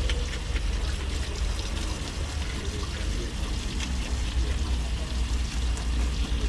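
Steady low rumble, like wind on the microphone, with faint scrapes and clicks of a knife scaling fresh fish.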